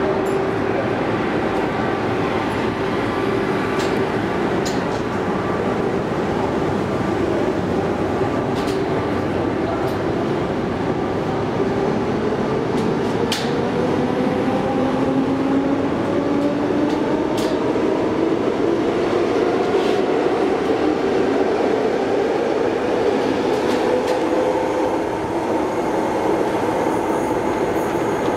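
Electric commuter train running at a station platform: a steady rumble with a motor whine that slowly rises in pitch about halfway through, as on pulling away. Sharp clicks come now and then.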